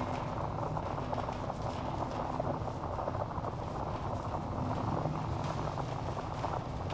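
Wood fire in a fireplace crackling steadily, a dense run of small snaps and pops.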